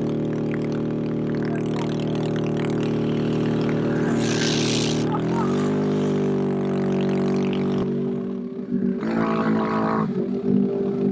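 Can-Am Renegade ATV engine running steadily under load; its pitch steps up about five seconds in. A short hiss comes a little after four seconds, and from about eight seconds the throttle is let off and opened again in short, uneven bursts.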